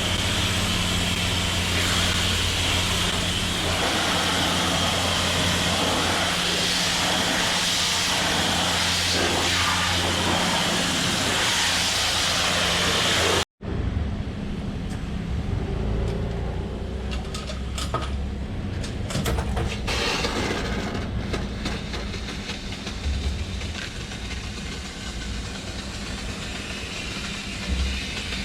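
High-pressure washer running: a steady motor hum under the loud hiss of the water spray, rinsing foam off a car. It cuts off abruptly about halfway through, giving way to a quieter, uneven washing noise with scattered clicks.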